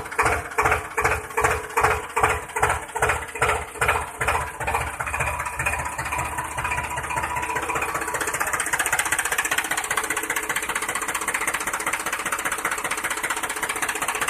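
A vehicle engine sound effect chugging in even beats, about three a second. The beats quicken over the first few seconds and merge into a steady running sound.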